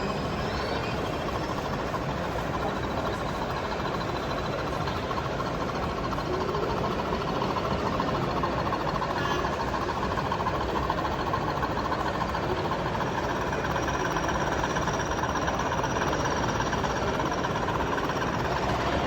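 Steady background din of a busy exhibition hall, with faint thin high tones held above it.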